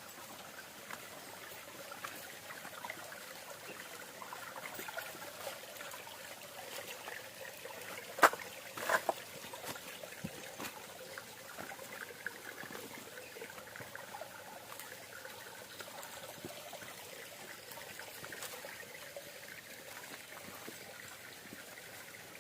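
Shallow waterfall water trickling steadily over a sloping rock face, thin with the dry-season flow. A sharp knock comes about 8 seconds in and another just under a second later.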